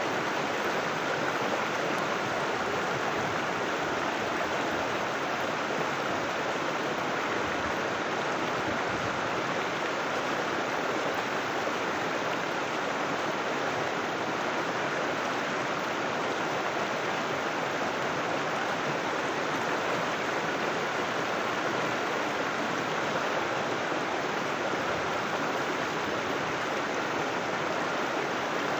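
River water rushing and flowing steadily, an even, unbroken wash of water noise.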